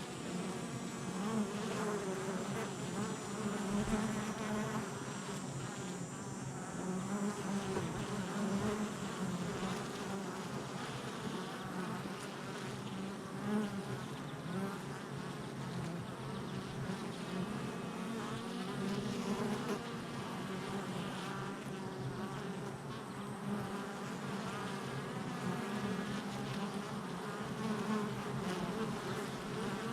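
Many honey bee workers buzzing in flight at a hive entrance, a steady, wavering hum that swells a little as bees pass close.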